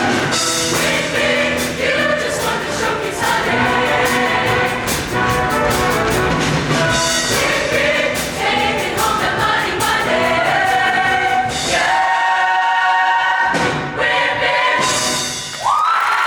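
Show choir singing with its backing band, full and loud. About twelve seconds in the bass drops away and the voices hold a long chord before the band comes back in.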